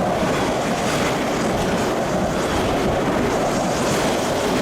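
Hanshin Main Line train passing through the station at speed without stopping: a steady loud rush of wheels on rail and moving air.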